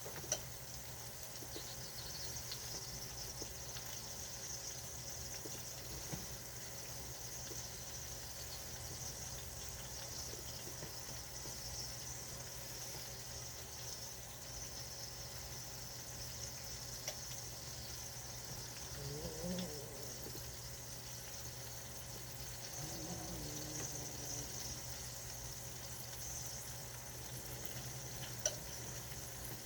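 Food cooking on a stovetop: a faint, steady hiss over a low hum.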